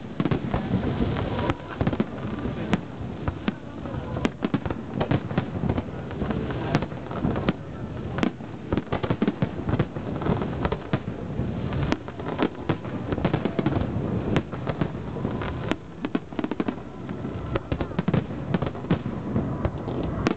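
Dense barrage of aerial fireworks shells bursting, a rapid, continuous string of bangs with no pause.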